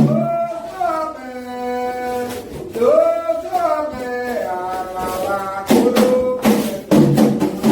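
A single voice sings a drawn-out, unaccompanied line of a Candomblé chant to the orixás. About six seconds in, hand drums and percussion come back in with a fast beat.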